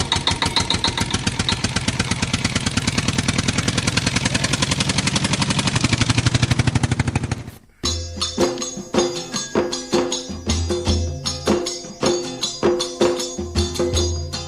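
An engine running with a rapid, even chugging that grows a little louder, then cuts off abruptly about halfway through. Rhythmic music with tambourine and percussion follows.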